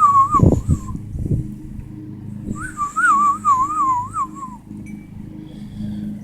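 A person whistling a bird-call imitation: two warbling, wavering whistled phrases, the second starting about two and a half seconds in. A few low thumps come about half a second in, over a steady low hum.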